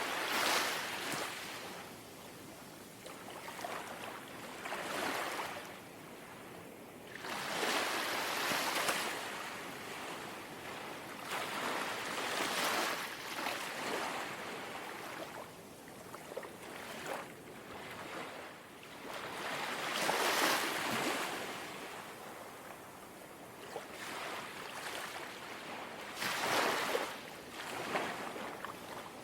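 Small, calm sea waves lapping against the shore, each one a soft swell of wash. They arrive every few seconds, about six in all.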